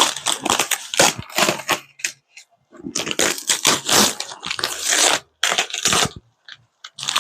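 A shipping box being torn open by hand: two long spells of ripping and crumpling packaging with a short pause between.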